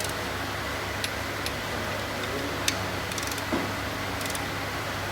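Scattered light clicks and taps, a few per second at most and irregular, over a steady low hum.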